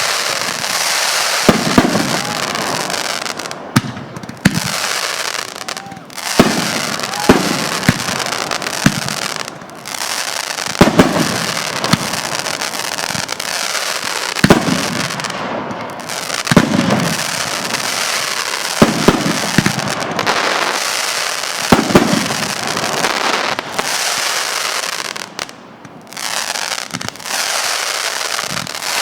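Consumer fireworks going off: sharp bangs about every one to two seconds over a continuous crackling hiss.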